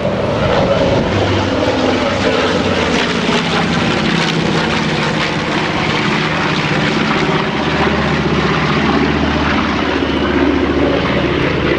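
Propeller airplane engine running steadily and loudly, its pitch shifting slightly over the seconds.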